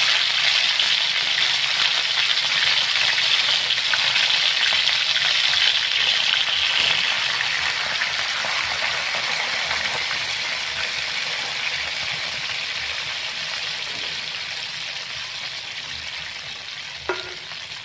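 Chicken wings and garlic frying in hot oil in a non-stick pan, a steady sizzle. Coca-Cola is poured into the pan, and over the second half the sizzle slowly dies down.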